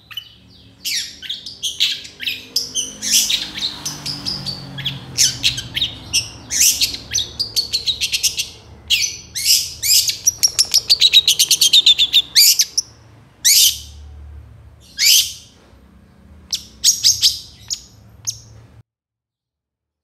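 Long-tailed shrike singing a fast, chattering song of sharp high notes and quick rattling runs, densest around the middle; the song cuts off suddenly near the end.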